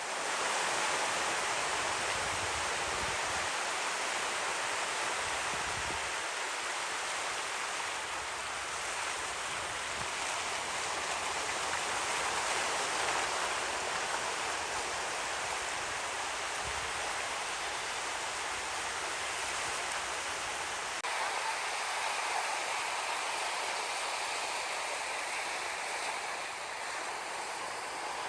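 Ocean surf washing on a beach, a steady hiss of moving water with gentle swells.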